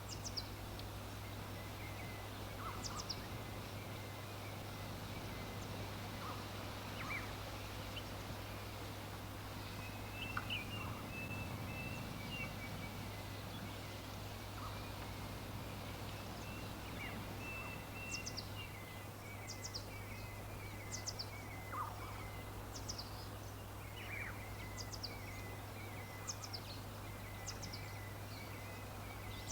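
Small birds chirping: short, high, down-slurred chirps every second or two and bouts of chattering trill, over a steady low hum and background hiss.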